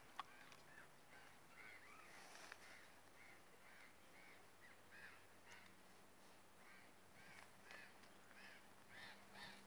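Faint birds calling over and over, short arched calls a few times a second, with one sharp click about a quarter second in.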